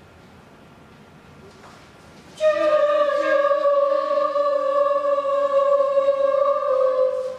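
One long held musical note, starting suddenly about two and a half seconds in after a quiet stretch, dipping slightly in pitch just after it starts and then holding steady until near the end.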